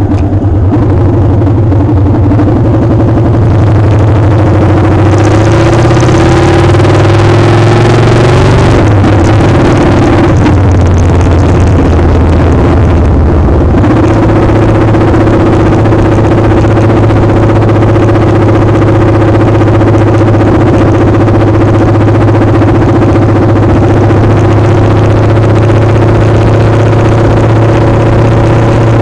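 Motorcycle engine running under way, with heavy wind noise on the microphone. The engine note wavers and shifts about ten seconds in, then holds steady.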